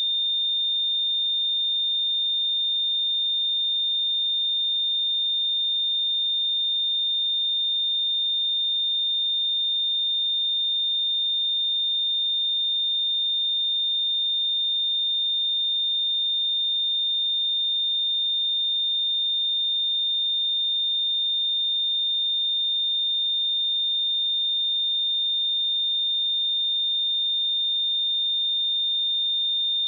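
A steady pure sine-wave test tone at 3626 Hz, a single high-pitched note held at a constant level without change.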